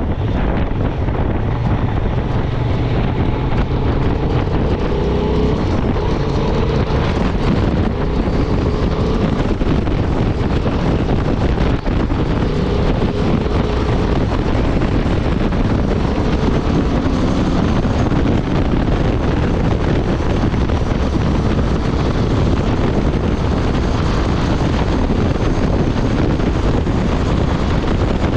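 Honda Transalp 750's parallel-twin engine and exhaust running steadily at highway speed, mixed with heavy wind noise buffeting the microphone.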